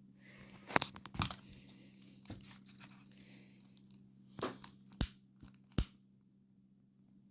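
A series of small clicks, taps and light clatter from handling tools and small parts on a workbench during a cable solder repair, with one brief high metallic ping near the end, over a faint steady low hum.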